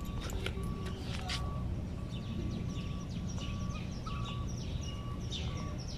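Small birds chirping in many short, quick downward notes, with a repeated short steady note mixed in. The chirps grow busier near the end, over a steady low rumble of outdoor background noise.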